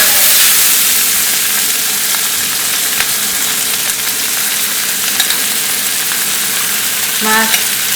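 Potato masala filling frying in oil in a hot pan: a steady sizzle with a few faint clicks as boiled potato, onion and peas are stirred together.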